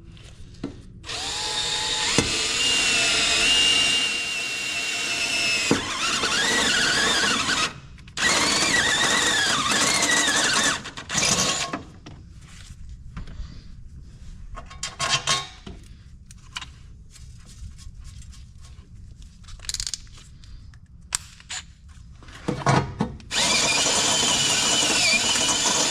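Power drill boring mounting holes in long runs with a wavering whine as the bit cuts, stopping and restarting. There are scattered clicks and handling knocks between runs.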